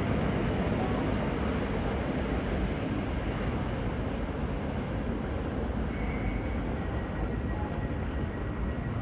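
V/Line VLocity diesel railcar set running, a steady rumble of engines and wheels that eases a little over the seconds.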